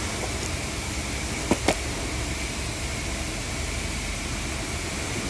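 Steady hiss and low hum of an idling car with its air-conditioning fan blowing, with a faint high whine and two short clicks about a second and a half in.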